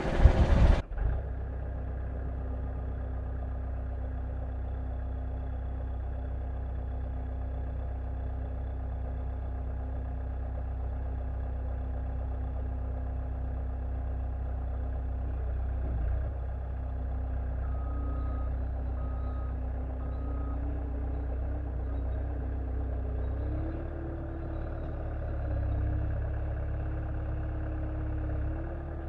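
Small gasoline engine of a Frontier OS31 portable sawmill running steadily at idle, its pitch stepping up slightly about three-quarters of the way through. A loud rushing noise stops abruptly about a second in.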